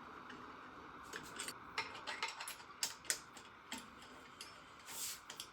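Light, irregular metallic clicks and ticks of a screw being worked loose with a hand tool.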